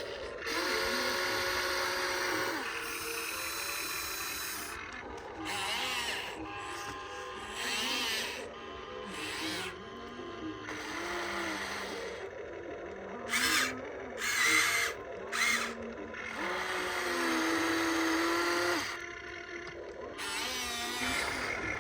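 Small electric motors of a radio-controlled construction model whining in repeated short runs, each starting, holding and stopping, the pitch stepping up and down as different functions are driven.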